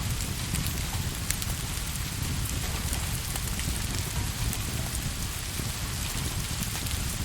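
Steady rain falling, an even hiss over a low rumble, with scattered small ticks and crackles throughout.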